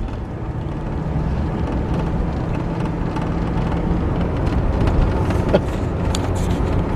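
Car driving on the road: a steady low engine and tyre rumble that grows gradually louder.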